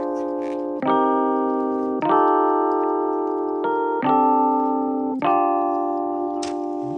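Background music: a keyboard playing slow sustained chords, a new chord struck about every second and a bit, each fading gently before the next.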